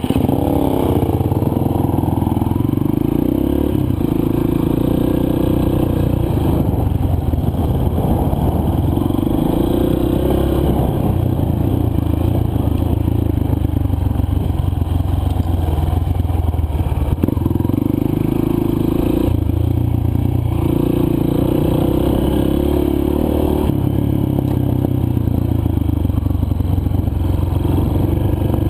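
Single-cylinder four-stroke dirt bike engine running under load on a trail ride, its revs rising and falling every few seconds as the rider works the throttle and gears, with some clattering from the bike over loose ground.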